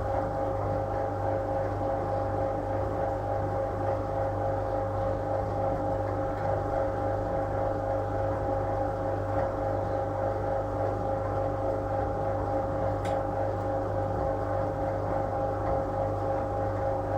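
Fisher Bendix LA automatic washing machine from 1966 running its wash cycle: a steady motor hum with a constant pitched drone.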